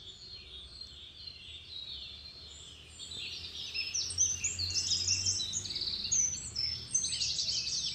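Several small birds chirping and trilling, sparser at first and busier from about three seconds in, over a low steady hum.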